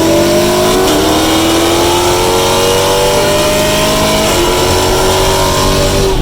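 Muscle car engine pulling under acceleration, its pitch rising slowly. The revs dip about four seconds in, as at an upshift, then carry on, over steady road and wind noise.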